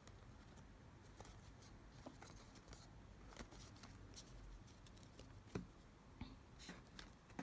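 Faint handling sounds of small photo cards being sorted and laid down: a scatter of light clicks and taps over low room hiss, the clearest about five and a half seconds in.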